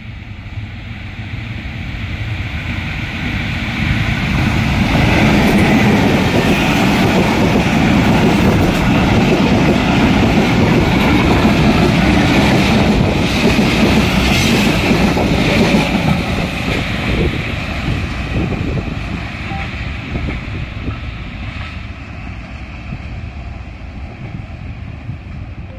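A diesel locomotive hauling a long passenger train passing close by: the rumble builds over the first five seconds as the locomotive arrives, stays loud for about ten seconds while the coaches roll past on the rails, then slowly fades as the train moves away.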